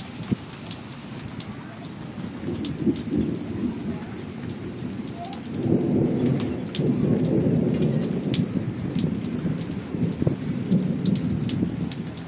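Thunder rumbling low, building a couple of seconds in and swelling much louder about five and a half seconds in, with rain drops pattering and ticking throughout.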